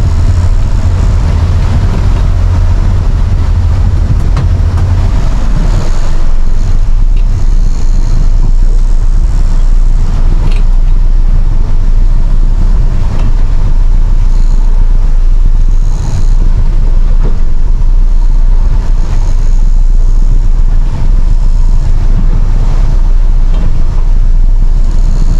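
Boat engine running underway, a steady loud drone with wind buffeting the microphone.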